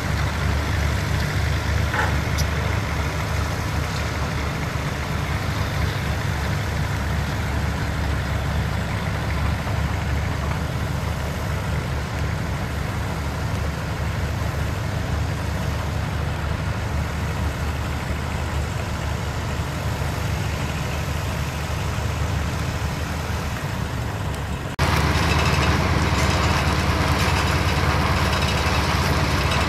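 Diesel engines of heavy construction machines running steadily with a low rumble, with a brief high squeak about two seconds in. About 25 seconds in, the sound jumps abruptly louder and brighter.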